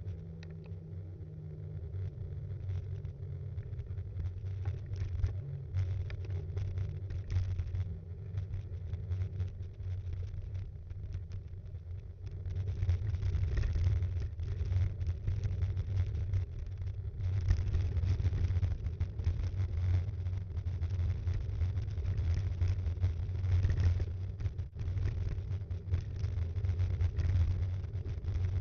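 Low rumble with frequent small rattles and knocks from a B'Twin Rockrider 5.1 mountain bike in motion, heard through a camera mounted on the bike; it gets louder about twelve seconds in and again past the halfway point.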